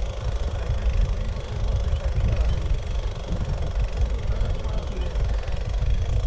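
Low, gusty rumble of wind buffeting a GoPro's microphone during a bicycle ride, mixed with the rumble of the bike rolling over rough ground.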